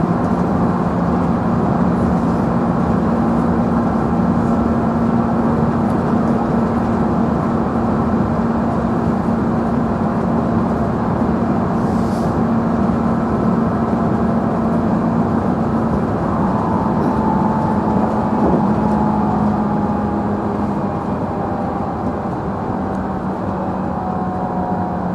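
Running noise heard inside a JR Central 311-series electric train's motor car at speed: a steady rumble of wheels on rail under a low traction-motor hum. About two-thirds of the way in, a higher motor tone joins in and the sound eases off slightly.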